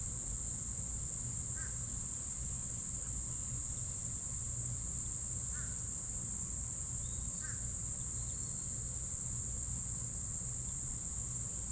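Insects trilling in one steady, high-pitched drone, with a few faint, short bird chirps about two, six and seven and a half seconds in.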